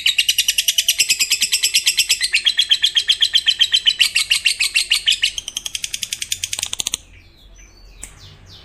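Lovebird's long 'ngekek' chatter: a rapid, unbroken run of high-pitched notes, about ten a second, that stops suddenly about seven seconds in, followed by a few faint chirps.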